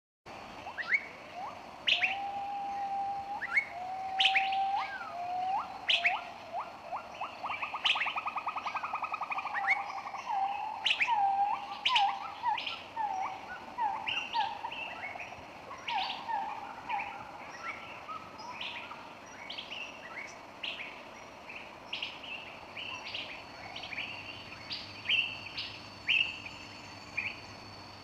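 Birds calling and singing: many short, sharp chirps and whistles, with a rapid trill about eight seconds in, coming in suddenly at the start.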